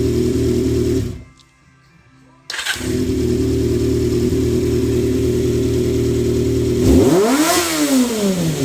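Honda CBX400F air-cooled inline-four idling steadily on freshly repaired and adjusted carburetors. The engine sound drops out for about a second and a half, then it is running again, and near the end one quick throttle blip sends the revs up and back down smoothly to idle.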